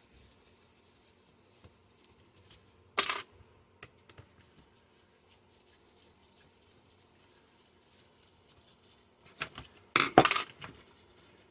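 Screws being taken out of a microwave's fan motor mount by hand: faint scraping ticks, with a sharp clatter of small metal parts about three seconds in and a louder clatter near the end.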